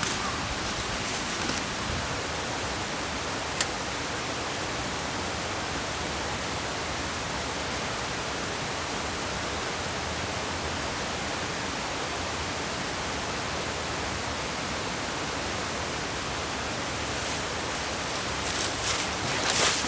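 A steady, even rushing noise with no rhythm or pitch. There is one sharp click about three and a half seconds in, and irregular crackles and rustles near the end.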